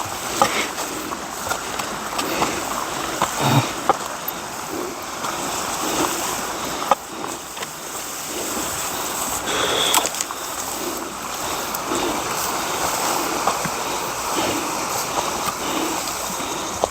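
Seawater splashing and washing steadily, with small knocks scattered through it.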